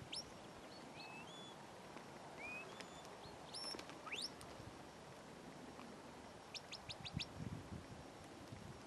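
Small birds chirping faintly: scattered short high notes and quick upward-sweeping calls, with a rapid run of five ticking notes about two-thirds of the way through.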